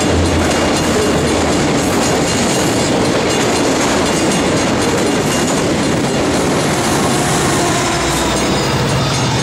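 Loaded autorack freight train passing close by at reduced speed, its steel wheels rolling steadily over the rails. Near the end the rear distributed-power locomotive, a Union Pacific SD70ACe, draws level, and its diesel engine adds a low, steady drone.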